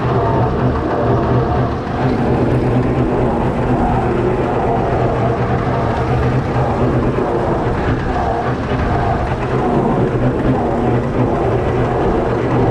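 Six-cylinder Perkins diesel engine in a Fordson Major tractor running steadily under load, driving a PTO slasher cutting grass.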